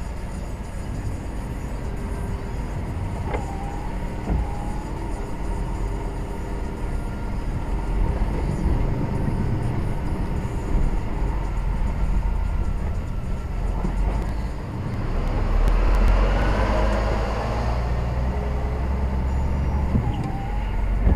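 Lorry engine and road noise while driving, a steady low rumble. Around fifteen seconds in it grows louder, with a rising whine as the engine pulls harder.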